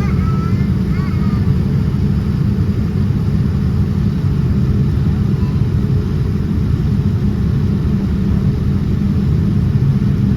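Steady low rumble of a Boeing 787-10's engines and airflow heard from inside the passenger cabin, holding an even level.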